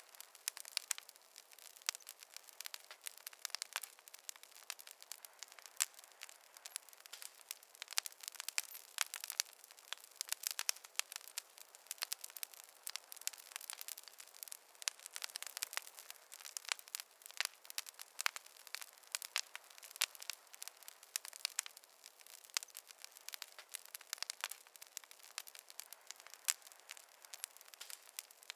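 Campfire crackling: a dense, irregular run of sharp pops and snaps over a faint hiss.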